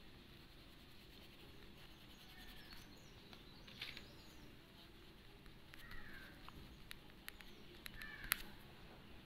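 Quiet room with faint, short bird chirps in the background and a few soft clicks, one sharper click about eight seconds in.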